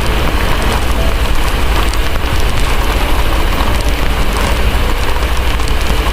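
Heavy rain falling steadily, mixed with the small scattered pops of a crackling wood fire, over a constant low rumble.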